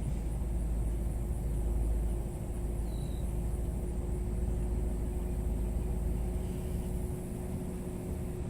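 Low, steady vehicle rumble with a faint steady hum, easing slightly after about two seconds.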